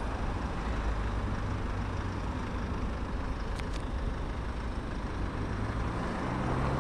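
Vehicle engine running steadily at low speed, a low rumble, with two faint clicks about three and a half seconds in.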